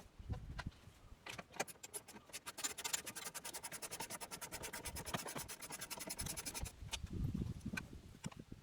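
Rapid, evenly spaced mechanical clicking lasting about four seconds during work on a car door, with scattered knocks before it and handling rustle after it.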